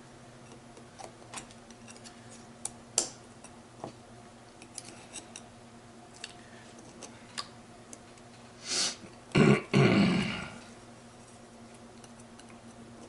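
Small sharp metal clicks and taps as the synchro hub blocks and their springs are pressed into place on a Ford 2000E gearbox hub, with one louder click about three seconds in. Near the end comes a louder burst of noise that lasts about two seconds.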